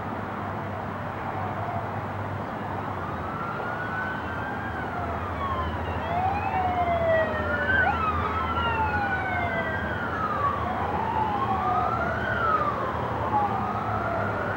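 Several emergency-vehicle sirens wailing at once, their slow rising and falling sweeps overlapping, and getting louder about six seconds in, over a low steady rumble.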